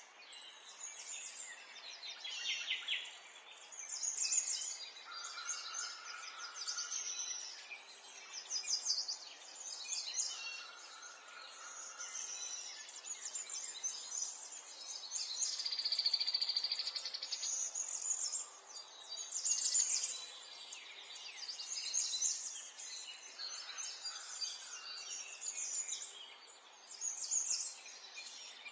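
Several songbirds chirping and singing at once in a dense, continuous chorus of quick high chirps and trills, over a faint steady background hiss.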